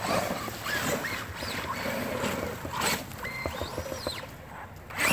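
Brushless electric motor of a Traxxas Rustler VXL RC truck whining up and down in several short bursts of throttle, one long rise and fall near the end, as the truck spins its tires through muddy water.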